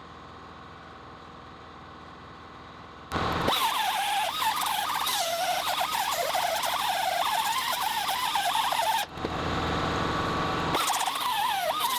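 A steady hum, then about three seconds in an abrasive wheel bites into steel: a loud grinding noise with a squealing tone that wavers in pitch as the load changes. It breaks off briefly about nine seconds in and then resumes.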